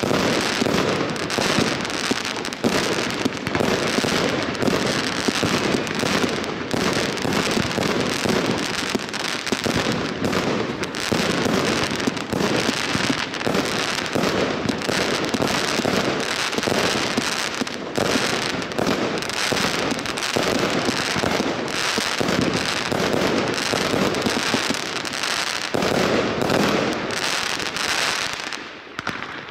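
Evolution Snowstorm firework cake box firing a dense, continuous barrage of bangs and crackling shots, tailing off near the end as the battery burns out.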